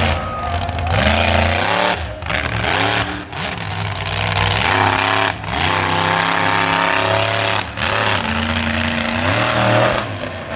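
Monster truck engine revving hard in repeated surges. Its pitch climbs, then drops off sharply when the throttle is lifted, about four times.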